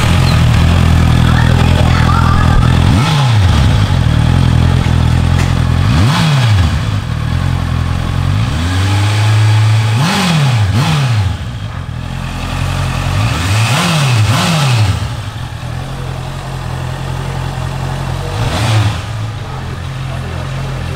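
Honda CBR650F's inline-four engine breathing through a full-system Akrapovic exhaust, idling steadily with about seven short throttle blips, each revving up and falling back to idle.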